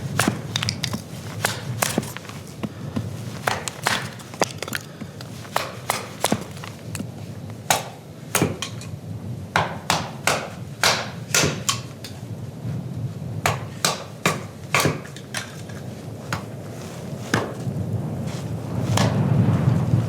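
A long series of sharp, irregular knocks and clicks, sometimes two or three a second, over a steady low rumble of storm wind that grows louder near the end.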